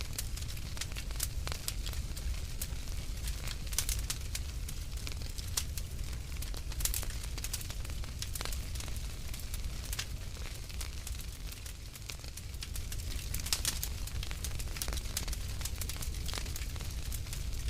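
Wood fire crackling in a fireplace: sharp pops and snaps at irregular intervals over a steady low rumble.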